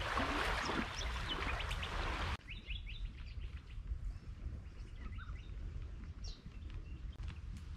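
A steady rushing noise that cuts off about two seconds in, followed by birds chirping in short, quick calls over a quiet background.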